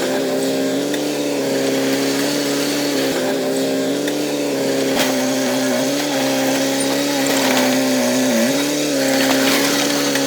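Diesel engine of heavy earthmoving machinery running steadily under load, with a droning whine that sags briefly about eight seconds in.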